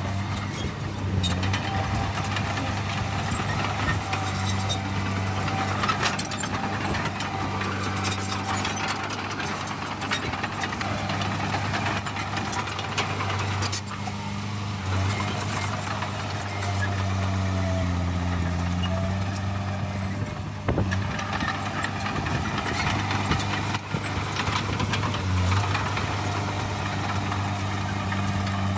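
Heavy diesel earthmoving machinery running steadily, its engine pitch dipping and rising now and then, with occasional brief knocks.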